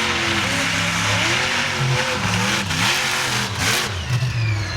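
Monster truck engine revving hard, its pitch rising and falling again and again, with a short burst of noise about three and a half seconds in.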